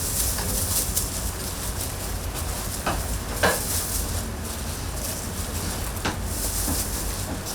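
Oil sizzling as twisted doughnuts deep-fry, with a few short clinks, the loudest a little past three seconds in.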